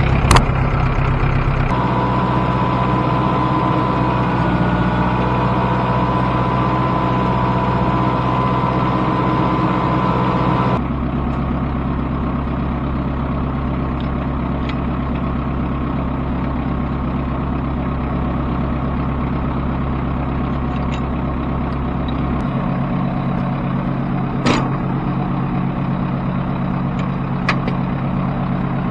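Tractor engine running steadily, its note shifting abruptly about 2, 11 and 22 seconds in, with a few sharp clicks over it.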